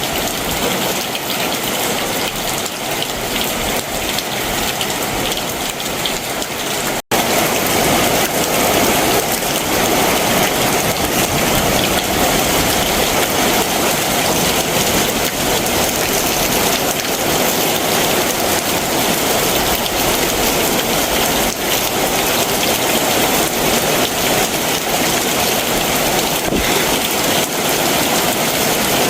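Heavy summer monsoon downpour, rain falling steadily and densely. About seven seconds in the sound drops out for an instant and comes back louder.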